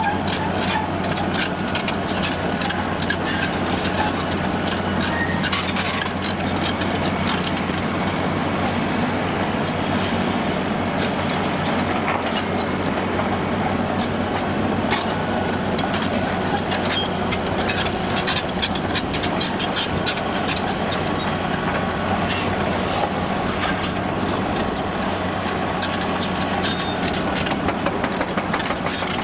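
Heavy demolition excavator's diesel engine running steadily under load, with a continual stream of cracking, crunching and clattering as concrete is broken and debris falls.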